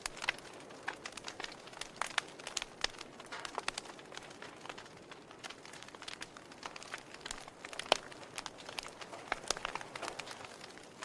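Wood fire crackling in a fireplace: irregular pops and snaps over a soft hiss, the sharpest snap about eight seconds in.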